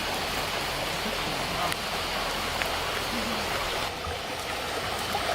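Stream running high with rain water, a steady rushing flow.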